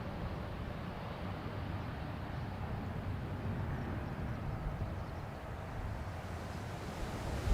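Distant jet airliner engines, a steady rumble and hiss that swells slightly and then eases.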